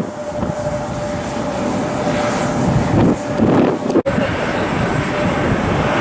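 Jet airliner engines running, a steady rumble with a faint steady whine. The sound drops out briefly about four seconds in.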